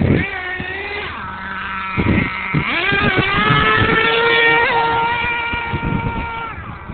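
RC monster truck's motor running at speed with a pitched whine. It climbs in pitch as the truck accelerates, eases off, climbs again about two and a half seconds in and holds high, then drops away near the end.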